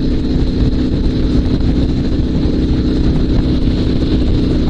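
Dnepr 16 sidecar motorcycle's boxer-twin engine running steadily while riding at an even speed, with no change in revs.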